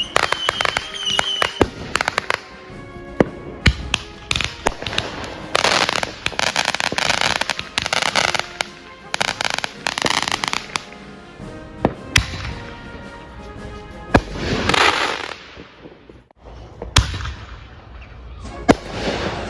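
Consumer fireworks going off in a backyard display: a string of sharp bangs from aerial shells, with long stretches of dense crackling in the middle and again about three-quarters of the way through.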